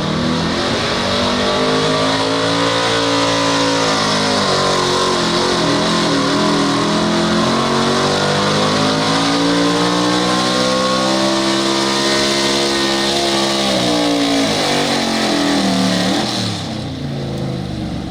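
A Super Street class pulling truck's engine at full throttle during a pull. The revs climb, dip about five seconds in, climb again and hold, then fall away and drop off near the end as the run finishes.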